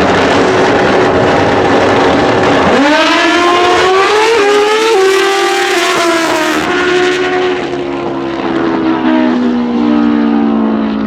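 Two drag-racing motorcycles launching about three seconds in, their engines climbing in pitch in steps through the gear shifts. Later the pitch slowly falls and the sound eases as they run away down the strip.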